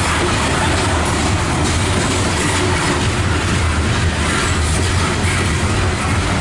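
Loaded coal train of open-top steel hopper cars rolling past, a loud steady rumble of steel wheels on the rails with the clack of wheels over the joints.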